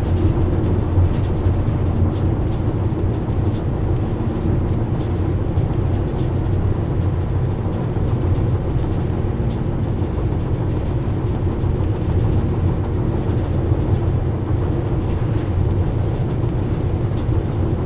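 Steady road and engine rumble inside a vehicle's cabin while driving at highway speed.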